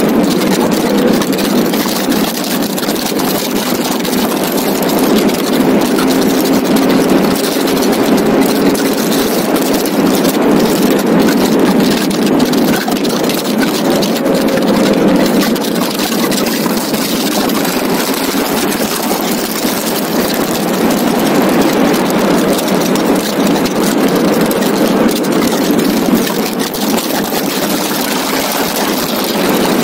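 Onboard sound of a Donkervoort D8 GTO RS at speed on track: a loud, steady rush of wind over the open cockpit and microphone, with the car's turbocharged Audi five-cylinder engine running hard underneath.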